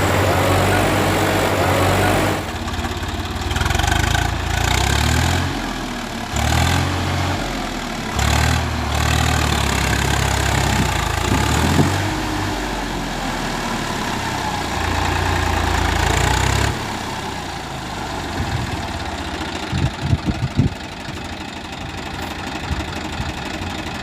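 Tractor diesel engine running, its pitch and level rising and falling repeatedly. About seventeen seconds in it drops to a lower, quieter note, and a few sharp knocks come near the end.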